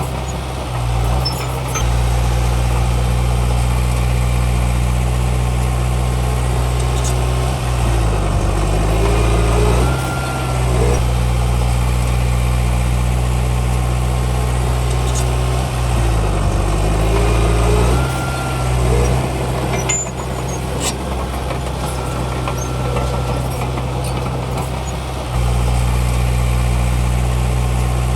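Heavy earthmoving machine's diesel engine running steadily. Twice, about eight seconds in and again about sixteen seconds in, its pitch dips and comes back up as the load or throttle changes.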